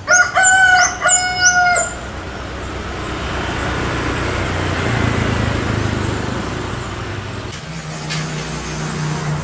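Rooster crowing loudly over the first two seconds in two long held notes. It is followed by the rising and fading rush of a passing vehicle. Faint, thin, high bird chirps come near the end.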